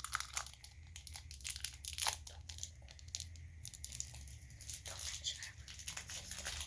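Plastic candy wrapper being crinkled and torn open: a dense run of sharp crackles and rips.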